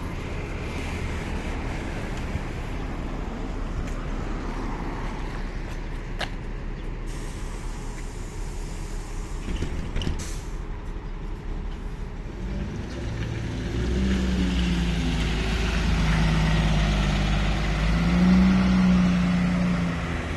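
Inside a NefAZ-5299 city bus: the bus runs with steady cabin noise and a few sharp clicks and rattles. About thirteen seconds in, a deep droning note from the engine and drivetrain comes in and gets louder as the bus accelerates, peaking near the end.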